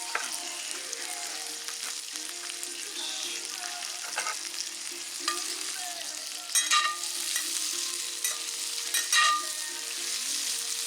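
Wood campfire crackling and hissing, with scattered sharp pops, the loudest about six and a half and nine seconds in.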